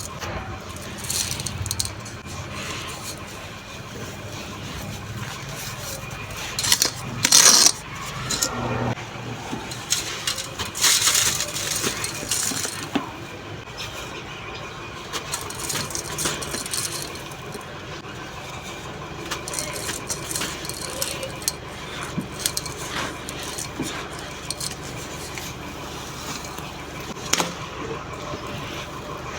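Blocks of soft sand crumbling and being crushed onto a clay pot: a steady grainy crackle of small clicks, with louder crunching bursts about a quarter and a third of the way in.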